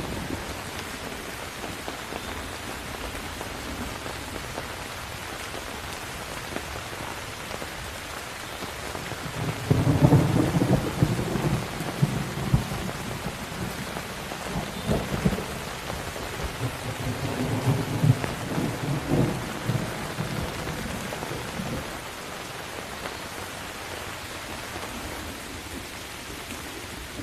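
Steady heavy rain with rolls of thunder: a long rumble about ten seconds in, and more rumbles a few seconds later that fade out.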